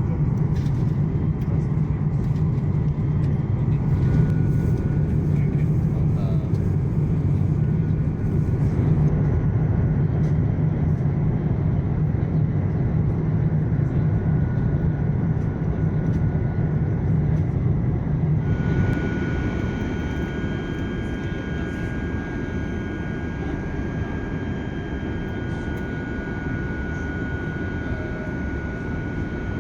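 Steady noise of an Airbus A350-900 jet airliner, a strong low rumble. About eighteen seconds in it changes suddenly to a quieter, thinner rush with faint steady high tones.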